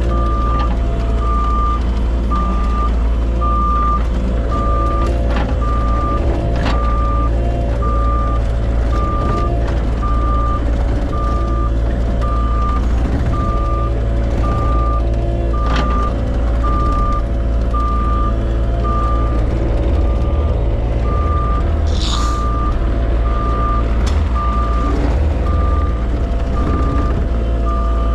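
Vehicle reversing alarm beeping steadily, a bit more than once a second, over a heavy truck's engine running. A brief hiss comes about three quarters of the way through, and a few knocks are heard.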